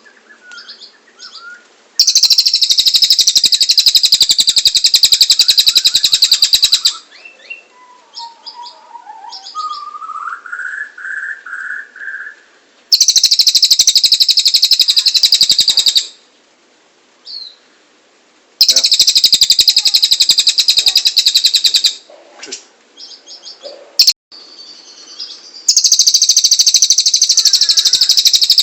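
A cililin bird singing vigorously: four long, loud, rapid high-pitched trills of several seconds each, with softer chirps and a short lower whistled phrase between them.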